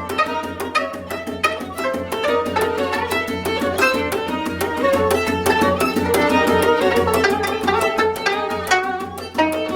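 Contemporary Korean ensemble music: a gayageum plucked in fast, dense notes together with a bowed string instrument, over a steady low hum.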